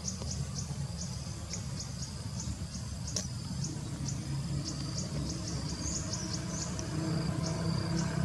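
Short, high-pitched chirps repeating about two or three times a second over a steady low hum; the hum grows slightly louder near the end.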